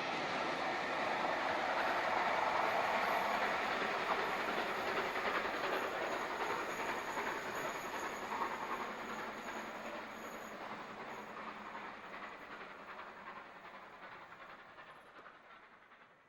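Train hauled by a diesel-hydraulic locomotive passing on the line: running noise and wheels on the rails, loudest about three seconds in, then fading steadily as it draws away.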